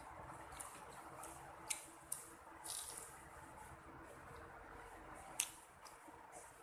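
Faint wet smacks and clicks of someone eating: a handful of short sharp sounds over a low background hiss.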